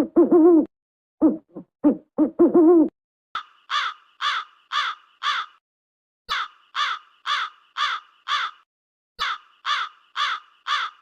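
An owl hooting: a few short low hoots and longer drawn-out ones. A crow then takes over, cawing in three series of five or six harsh caws at about two a second.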